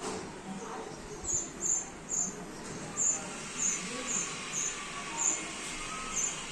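House sparrow chirping: about nine short, high chirps at uneven intervals over a steady background hiss.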